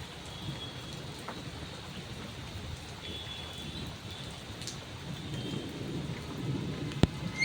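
Steady rain falling, an even hiss, with a low rumble swelling in the second half and a single sharp click shortly before the end.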